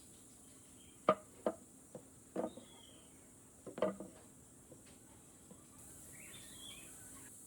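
A few sharp knocks and clatters, like wood or hard objects being handled and set down, most in the first few seconds, then faint high chirping near the end.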